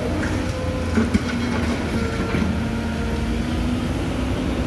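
Hydraulic excavator running under load while digging rock: a steady engine drone with a held hydraulic whine, and a couple of sharp knocks about a second in.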